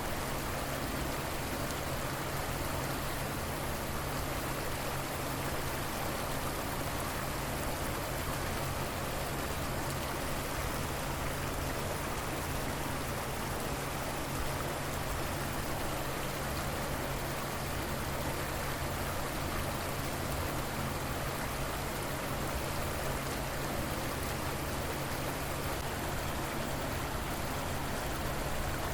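Steady rushing and burbling of a flowing river, an even wash of water noise that does not change.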